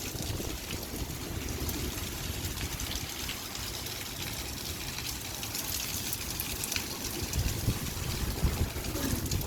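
Light rain falling steadily, a constant hiss of many small drop ticks, with a low, uneven rumble underneath.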